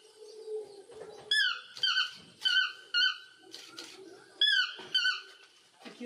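A bird calling: a run of short, sharp, squeaky notes, mostly in pairs, with a short pause in the middle.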